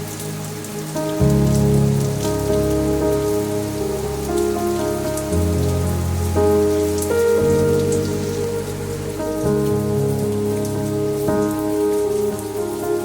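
Steady rain falling, with close droplets pattering and hissing, under slow music of held chords that change every second or two.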